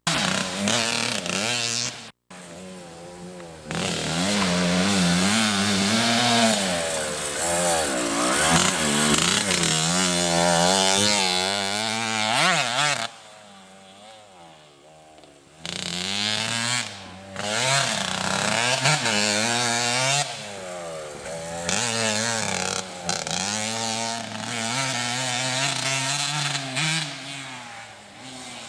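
Motocross dirt bike engines revving, the pitch rising and falling over and over as the riders work the throttle and gears. The sound cuts out briefly about two seconds in and drops much quieter for a couple of seconds around the middle before the revving comes back.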